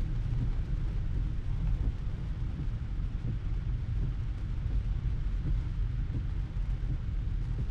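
Cabin noise of a Tesla Model 3 electric car driving in rain: a steady low road rumble with rain pattering on the car.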